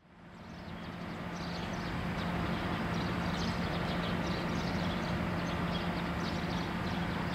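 Steady low hum from a parked 12-series passenger coach train, fading in over the first two seconds.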